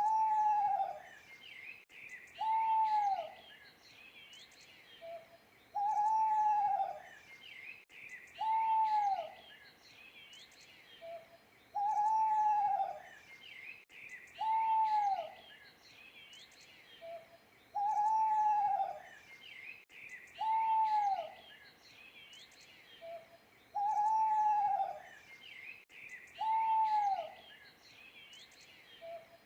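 An owl hooting in a pattern that repeats about every six seconds: a soft short note, then two louder hoots that each drop in pitch. Small birds chirp and twitter throughout at a higher pitch.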